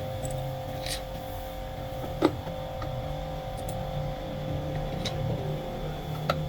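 Steady mechanical running hum with a low rumble and a held tone, broken by two sharp metallic clinks: a loud one about two seconds in and another near the end.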